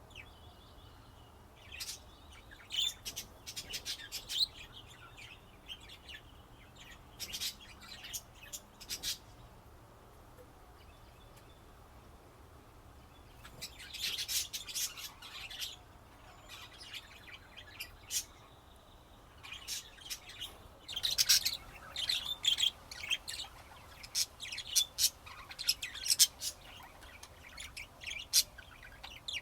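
Pet budgerigars chirping and chattering in short, irregular bursts, sparse at first and busier in the second half.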